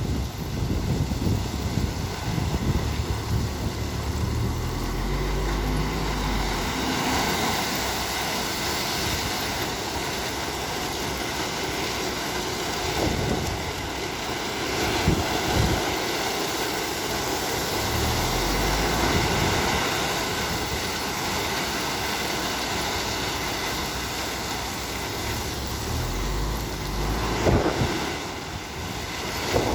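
Heavy truck engine running, its low note climbing a few seconds in, with wind noise on the microphone.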